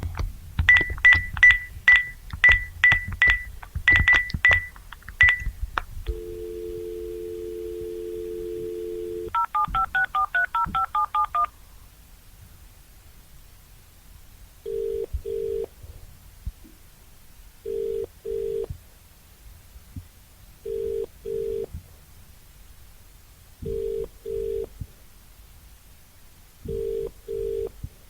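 Landline telephone call sequence: a rapid run of clicking electronic beeps, then a steady two-tone dial tone for about three seconds, a quick string of touch-tone (DTMF) keypad tones, and then a ringback tone in double bursts repeating about every three seconds, the British-style double ring of a line ringing at the other end.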